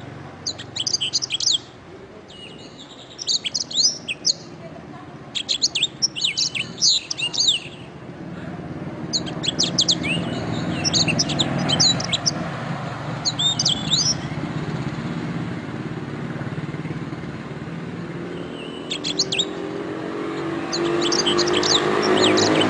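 Canary singing in short bursts of quick, high chirps and trills with brief pauses between phrases, over a low background rumble that grows louder near the end.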